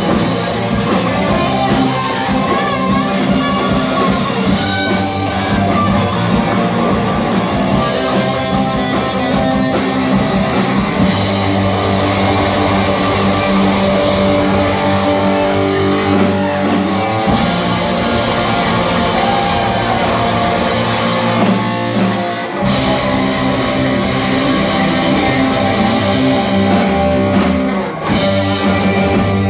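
Live rock music: electric guitar playing over a drum kit.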